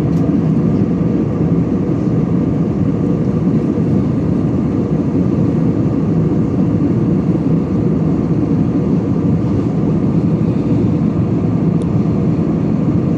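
Steady drone of an Airbus A320 in flight, engine and airflow noise heard from inside the cabin, even and unchanging.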